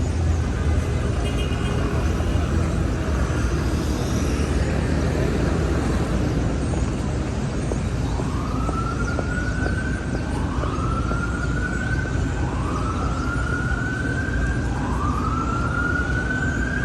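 Street traffic running steadily. About halfway through, an emergency vehicle's siren starts up, sounding a rising wail about every two seconds, four times.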